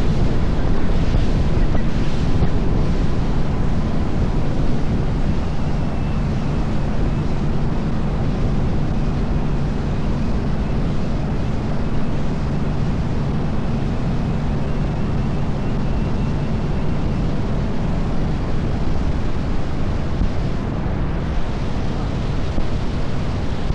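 A small tour boat under way: its motor runs at a steady low hum beneath water rushing past the hull, with wind buffeting the microphone.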